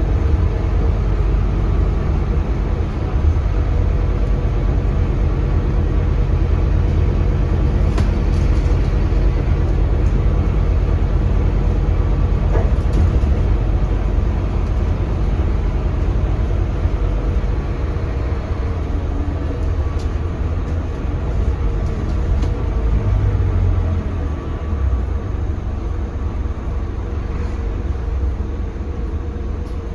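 Scania K320CB bus with its Scania DC9 320 diesel engine, heard from inside the cabin while under way: a steady low engine drone mixed with road noise, with a couple of light clicks or rattles.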